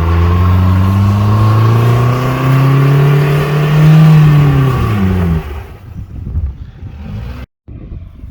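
Mitsubishi Pajero iO's 2.0-litre GDI petrol four-cylinder engine revved hard while the stuck 4x4 spins its wheels in wet grass. The revs climb slowly to a peak about four seconds in, then fall away and drop off about halfway through, leaving a much quieter background.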